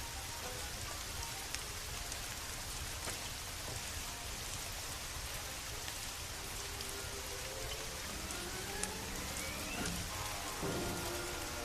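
Steady rain with scattered sharp ticks of drops or crackles. About eight seconds in, a pitched tone rises slowly, and other brief pitched sounds follow near the end.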